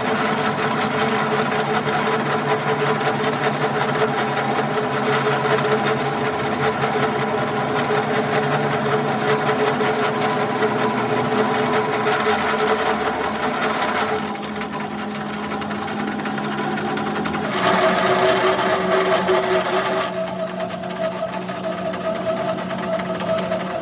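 A motor-driven machine running steadily, with a constant hum and hiss that shifts in pitch and loudness a few times: it drops back about 14 seconds in, gets louder and brighter around 18 seconds, then settles lower again.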